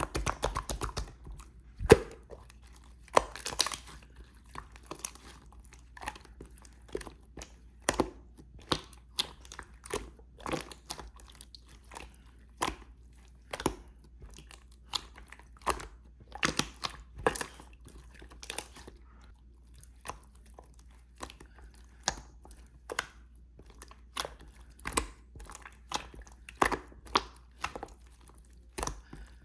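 Clear slime being squeezed and stretched by hand, giving irregular sticky clicks and small pops.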